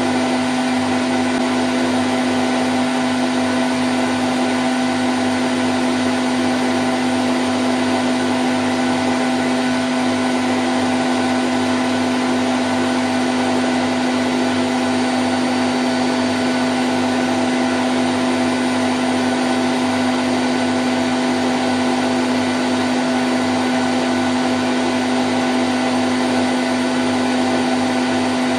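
Candy Grand O' F106 washing machine on its spin cycle at 1000 rpm: a steady, even whir with a strong low hum.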